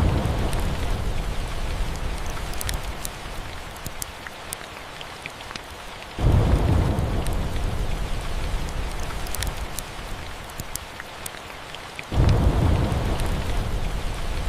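Steady rain with rolls of thunder. One rumble is already fading at the start, a new one breaks in suddenly about six seconds in and another near the end, each dying away over a few seconds. Scattered sharp ticks run through the rain.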